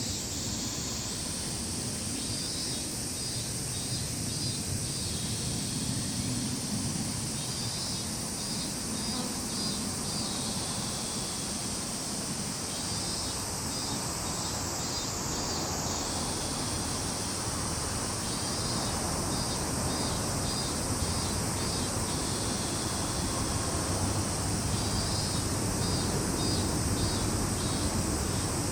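Matsumushi pine crickets singing: repeated short pulsed chirping phrases, each lasting about two seconds and coming every few seconds. They sound over a continuous high-pitched insect drone and a low background rumble.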